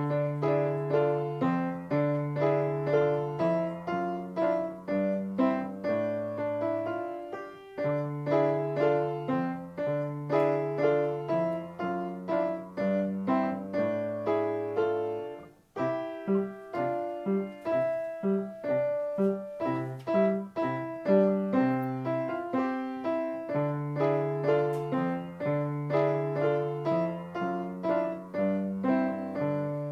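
Piano playing both parts of a simple beginner duet at once: a repeated low accompaniment under a melody. The playing breaks off briefly about halfway through, then resumes.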